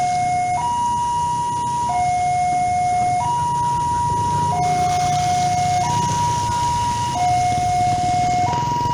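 Level-crossing warning signal sounding a slow two-tone alternation, a higher tone and a lower tone of about a second and a half each in turn, repeating steadily to warn that a train is coming. A low rumble runs underneath.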